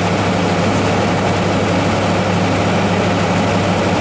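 Off-road SUV engine running at steady revs: a loud, even, low hum that does not rise or fall.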